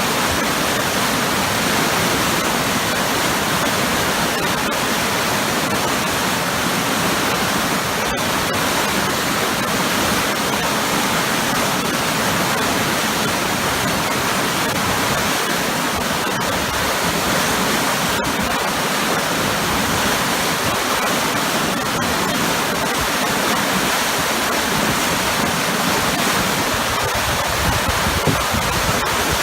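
Waterfall crashing into a churning pool, a steady, loud, even rush of water with strong turbulence.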